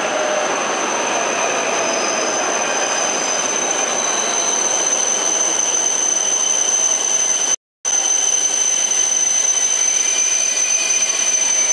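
JR East E531 series electric commuter train rolling slowly into a station platform as it arrives, with steady running noise, a constant high whine and faint wheel squeal. The sound cuts out for a moment about two thirds of the way through.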